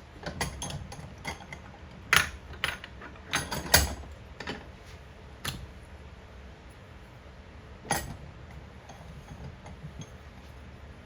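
Irregular sharp metallic clicks and knocks from hand tools and metal parts being handled, as when a fog light is taken apart for scrap aluminum. There are a few quick clusters in the first four seconds, then single knocks about halfway through and near the end.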